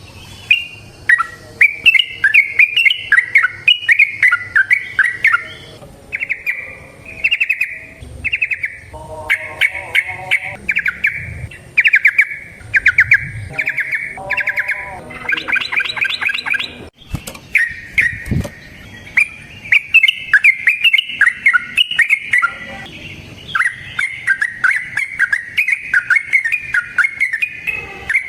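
Yellow-vented bulbul (trucukan) singing: loud, quick bubbling phrases repeated with short pauses, the long rapid song bird keepers call 'ropel'.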